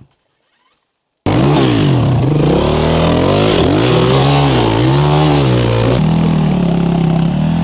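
Enduro dirt bike engine revving hard, its pitch swinging up and down several times in quick succession, then holding a steadier high note from about six seconds in. It starts suddenly after a second of silence.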